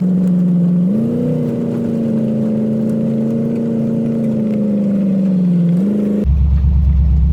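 Car engine running, its pitch rising about a second in and then holding steady, with a brief dip and recovery near six seconds. Near the end it cuts abruptly to a deeper, steady rumble like car road noise.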